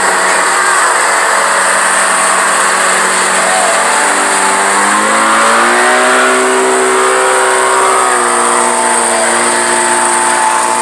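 Tractor engine running under load, its pitch climbing about four to six seconds in and then holding steady.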